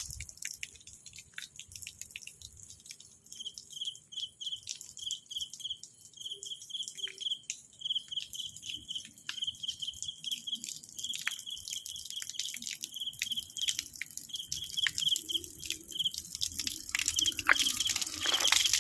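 Insects chirping: short chirps repeat at one high pitch in twos and threes over a steady high hiss, with scattered clicks. A broader rushing noise grows louder near the end.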